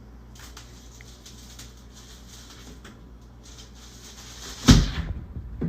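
A low steady hum with faint scattered clicks, then a loud thump a little before the end and a second, smaller knock just after it.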